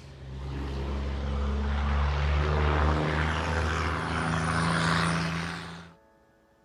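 A loud engine running, with a low steady hum and a rushing noise that swells over the first couple of seconds and then cuts off suddenly near the end.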